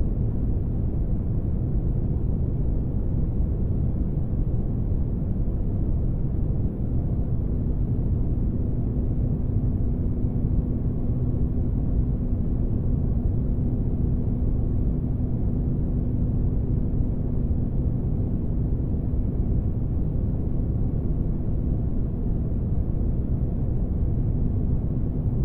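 Sci-fi spaceship engine-room ambience made as a sleep sound: a steady, deep rumbling noise with a faint constant hum running under it.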